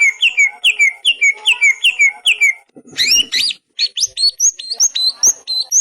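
Loud, clear repeated bird calls from a songbird masteran recording. First comes a run of quick down-slurred notes, about four a second. About halfway through there is a short tangle of rising whistles, followed by a run of higher, sharper notes, about three a second.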